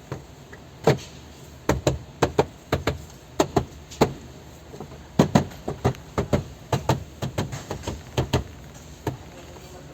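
A run of sharp, irregular knocks on a car's door trim panel, about two dozen in quick clusters, starting about a second in.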